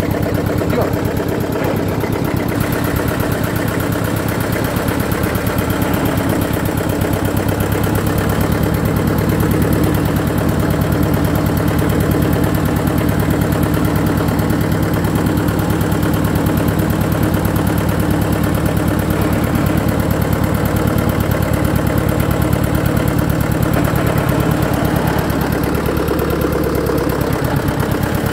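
Eicher tractor's diesel engine running steadily, its exhaust note a rapid, even beat of firing pulses.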